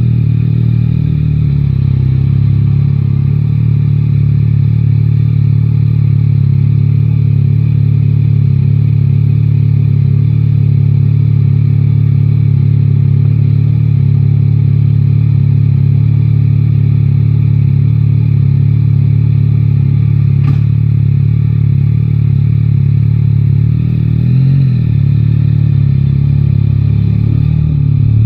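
Yamaha Tracer 9 GT's inline three-cylinder engine idling steadily, its note wavering briefly once near the end.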